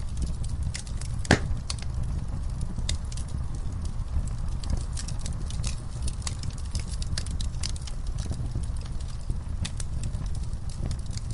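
Campfire burning: a steady low rumble with irregular crackles and snaps, and one sharper pop about a second in.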